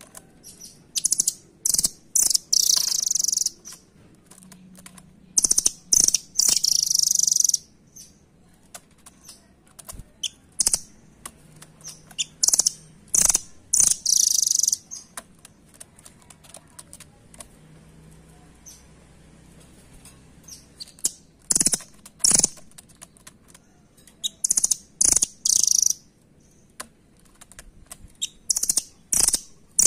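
Nuthatch (rambatan doraemon) calling in short, harsh, high-pitched bouts of a second or two, repeated about half a dozen times, with sharp ticking clicks in between.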